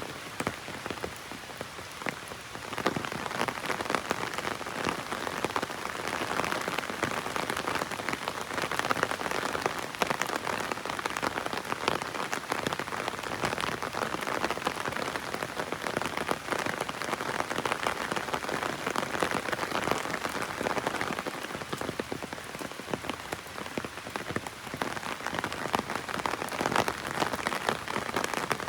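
Heavy rain drumming on an umbrella canopy: a dense, steady patter of raindrops that grows heavier about two and a half seconds in.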